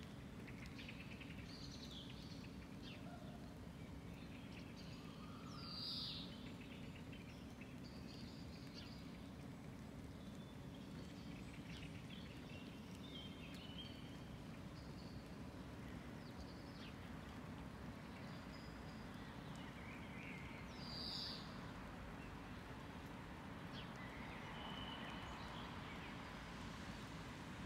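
Birds chirping and calling faintly and intermittently outdoors over a steady low background rumble. A slightly louder call comes twice, about 6 and 21 seconds in.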